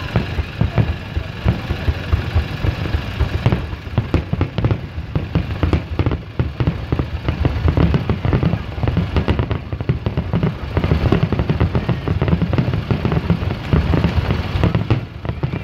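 Aerial fireworks going off in a dense stream of sharp crackles and pops, many bursts in quick succession, over a steady low rumble. The crackling thickens about three and a half seconds in.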